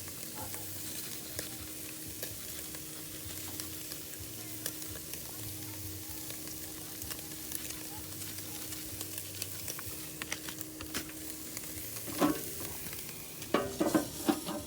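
Steak and corn sizzling and crackling on a grill: a steady frying hiss scattered with small pops. A few louder short sounds come about twelve seconds in and again near the end.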